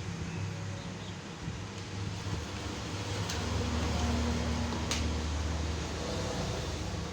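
A steady low machine hum with a few light clicks, swelling a little in the middle.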